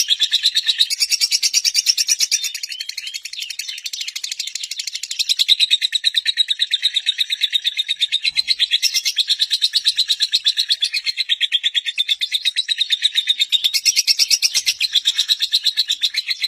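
Lovebird singing a long, unbroken string of rapid, high chirps, a little softer for a couple of seconds about two and a half seconds in, then loud again.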